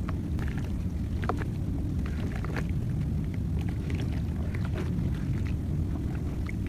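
Dry mud or cement being crumbled by hand: scattered small crackles and crunches over a steady low rumble.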